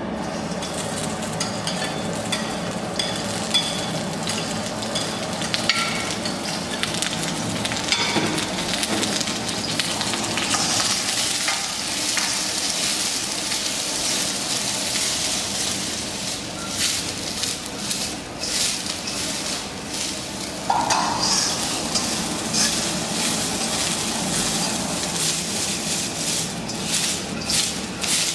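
Food sizzling as it fries in a hot pan, with a utensil stirring and scraping it. Clicks of the utensil against the pan come thicker through the second half.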